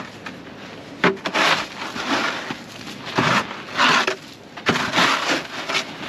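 A hand tool chipping and scraping through a thick sheet of ice, in about six irregular hard strikes and scrapes, some brief and some drawn out over half a second.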